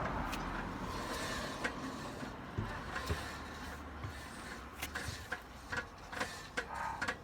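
Airstream trailer wheel hub spinning freely on its freshly greased hub bearing and slowly coasting down, with no squeal. Light irregular clicks and knocks grow more frequent in the second half, which the owner takes for the electric brake's magnet swinging loose and striking.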